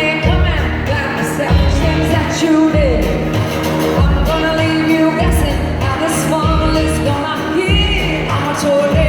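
Live country band performing with a lead vocal singing over a slow, heavy drum beat, about one low hit every second and a bit.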